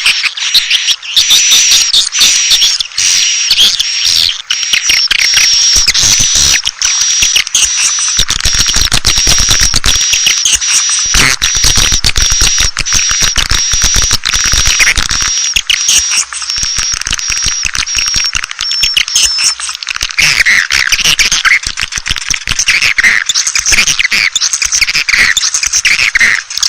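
Swiftlet calling track: dense, rapid twittering and clicking chirps of many swiftlets, the kind of lure call played to draw swiftlets into a nest house. A thin high steady tone runs underneath for most of it and drops out about two-thirds of the way through.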